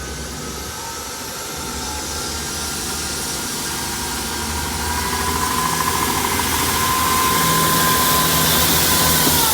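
South Western Railway Class 159 diesel multiple unit pulling away, its diesel engines running under power and growing steadily louder. A steady whine comes in about halfway and drops in pitch near the end.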